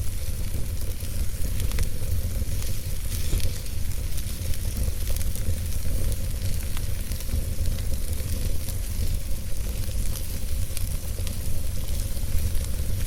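Wood logs burning in a fireplace: frequent small crackles and pops scattered over a steady hiss and a low rumble from the flames.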